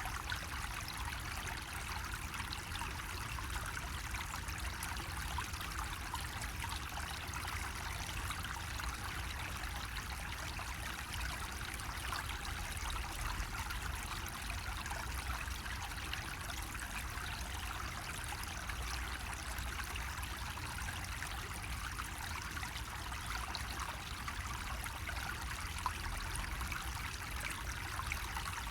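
Water running steadily from a bamboo spout, a continuous trickling splash with small droplet ticks.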